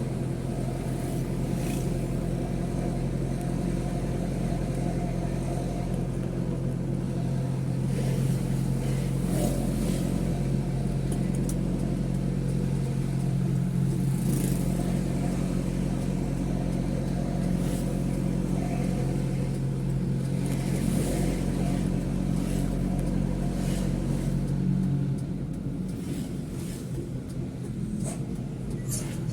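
Mitsubishi Fuso truck's diesel engine running steadily under way, heard from inside the cab with road noise beneath. The engine note drops about 25 seconds in as the truck eases off.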